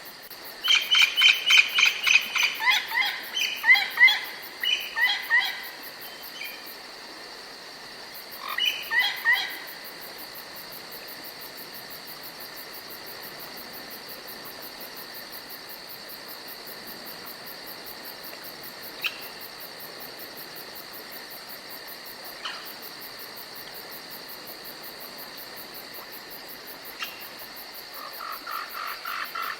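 Forest ambience: a songbird sings a loud, fast run of high repeated notes falling in steps over the first few seconds, then a shorter burst about nine seconds in, over a steady high insect drone. A short run of lower repeated notes comes near the end.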